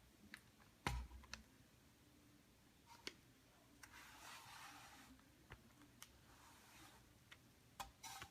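Quiet handling of a hand duster on ceiling fan blades: soft rubbing as it is slid over a blade, with a few light clicks and knocks scattered through.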